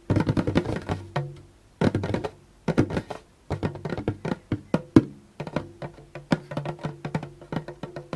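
Fingers tapping quickly on a djembe, in runs of many light taps with brief pauses, the drum ringing low under them.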